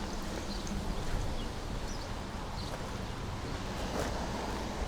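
Outdoor background noise: a steady low rumble with a light haze above it and a few faint, scattered high ticks.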